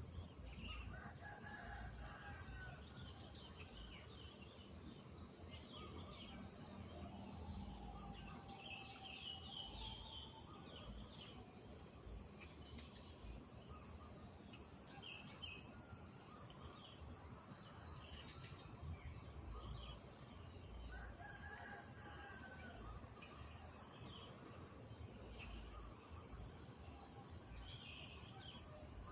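A rooster crowing three times: near the start, about seven seconds in and about twenty-one seconds in. Under it there is a steady high drone of insects and scattered short bird chirps.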